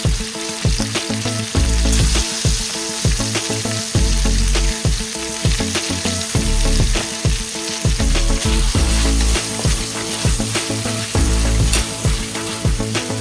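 Chicken pieces and garlic sizzling steadily in hot oil in a wok, with a wooden spatula stirring them near the end. Background music with a low, regular beat plays underneath.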